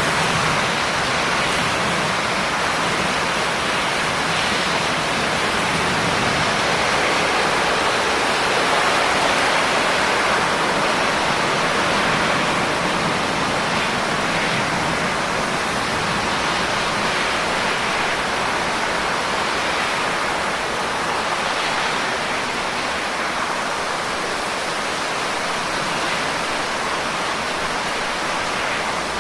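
Steady heavy rain: a dense, even hiss of falling water with no single drops standing out. A low rumble fades away within the first couple of seconds.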